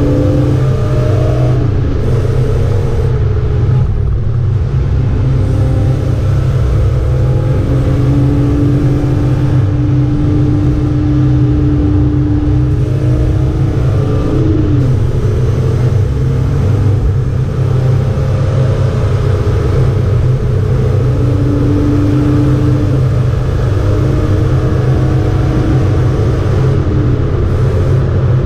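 BMW E36 325's straight-six engine heard from inside the cabin, running hard at track speed under a heavy low rumble. The engine note holds steady for seconds at a time, with a few brief shifts in pitch.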